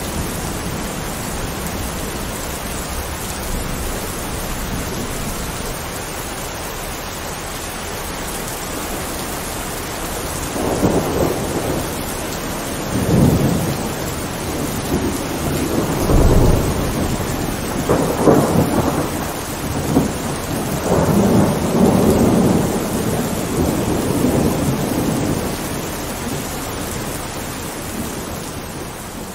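Heavy rain falling steadily, with thunder rolling in a series of rumbles through the middle stretch, then the storm easing off near the end.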